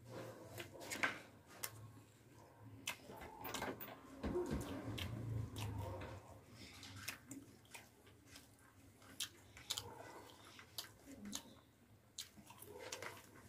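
Close-up eating sounds of a person chewing a mouthful of curry and rice, with many small scattered clicks and mouth noises, over a faint low hum.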